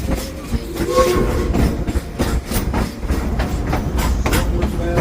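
Steam train rolling along, heard from aboard the cars: a steady low rumble of wheels on the track with irregular clicking and clattering.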